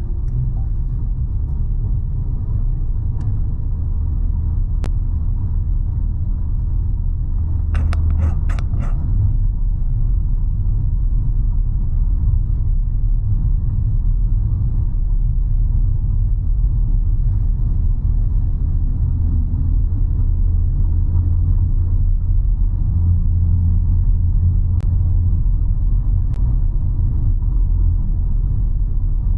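A car driving, with a steady low rumble of road and engine noise. A quick run of sharp clicks comes about eight seconds in.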